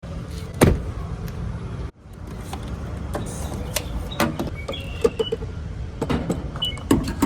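Vehicle interior noise while driving: a steady low rumble with scattered clicks and rattles, the sharpest about half a second in.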